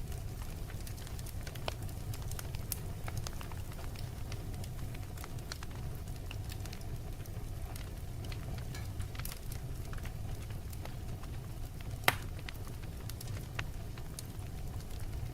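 Wood fire crackling: a steady low rumble of burning with scattered sharp pops and snaps, one much louder snap about twelve seconds in.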